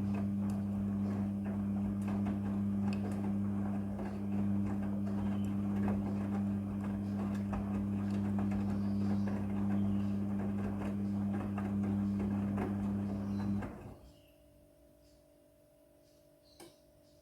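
Front-loading washing machine making a steady mains-frequency hum over rushing water, the sound of its water valve or pump at work. It cuts off suddenly about fourteen seconds in, followed by quiet and a single faint click near the end.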